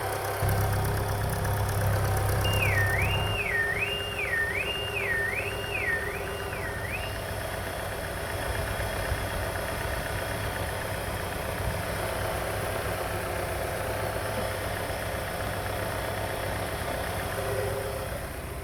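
Alfa Romeo 147's 2.0 Twin Spark four-cylinder petrol engine (AR32310) idling steadily, a little louder for the first three seconds.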